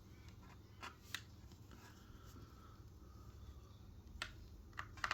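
Faint handling noises of a small diecast model truck and its packaging: light rubbing and a handful of small sharp clicks, about five over the few seconds, against quiet room tone.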